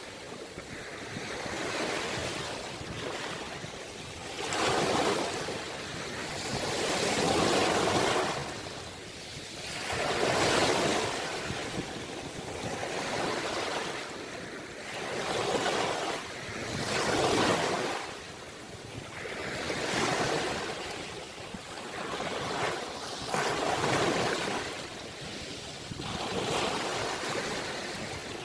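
Sea waves washing in on the shore, one surge of surf after another, each swelling and falling away every two to three seconds.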